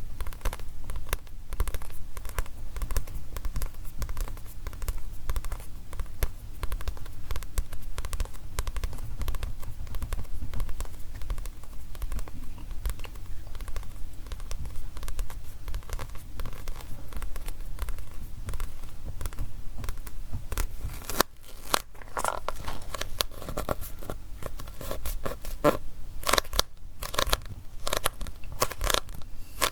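Fingers tapping and scratching rapidly on a manga book's cover and paper pages, close to the microphone. About two-thirds of the way through, the low rumble beneath the taps drops away and the taps become sharper and more spaced out.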